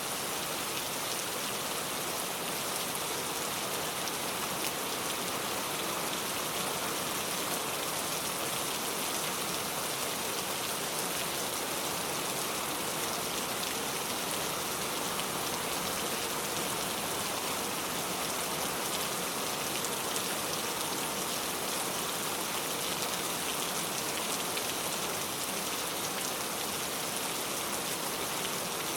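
Steady rain falling, an even hiss with many fine ticks of drops striking surfaces.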